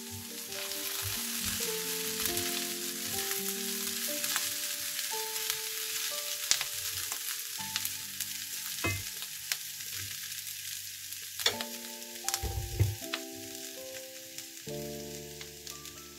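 Shredded cabbage, carrot and tomato sizzling as they fry in a nonstick pan. They are stirred with a utensil that clicks against the pan a few times. Soft background music plays under it.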